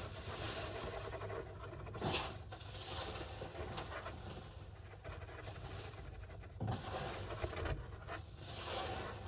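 Golden hamster digging and scratching in bath sand: a steady grainy rustling with a few louder scrapes, the strongest about two seconds in and again near seven seconds.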